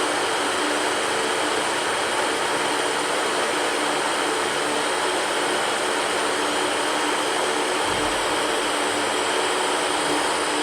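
Electric fan running steadily: an even rush of moving air with a faint, constant motor hum underneath.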